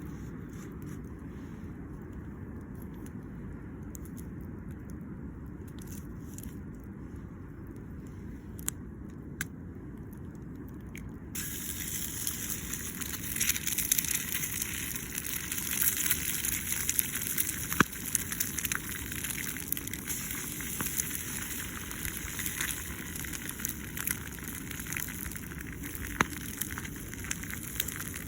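Campfire crackling and hissing, with scattered sharp pops, over a steady low rumble. About eleven seconds in, the crackle turns suddenly much brighter and louder.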